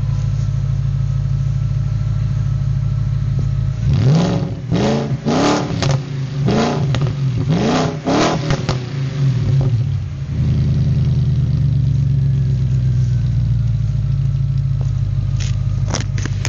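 Audi A6 4.2 Quattro's 4.2-litre V8 with the rear mufflers removed for straight-through pipes, idling, then revved about five times in quick succession about four seconds in, each rev rising and falling, before it settles back to a steady idle.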